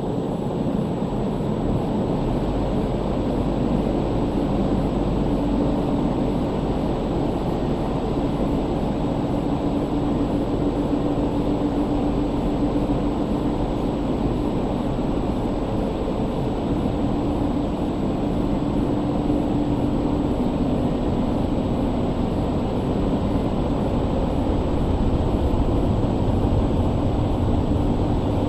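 Automatic car wash drying blowers running steadily: a loud, even air roar with a steady hum.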